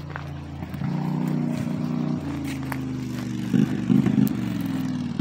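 An engine running, picking up speed about a second in and surging louder around the fourth second.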